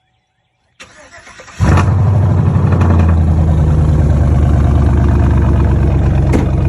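Car or truck engine cranked by the starter for under a second, then catching about a second and a half in and running loud and steady at a fast idle.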